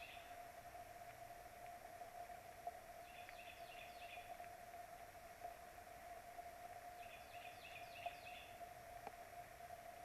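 Faint bird calls: two phrases of several short, quickly falling high notes, about four seconds apart, over a steady faint hum.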